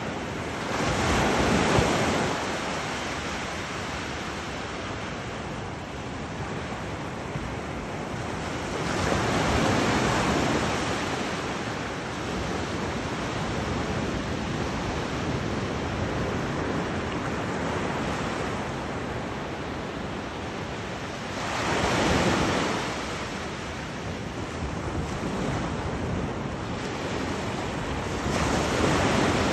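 Ocean surf on a beach: a steady wash of water with waves breaking and swelling louder four times at uneven intervals.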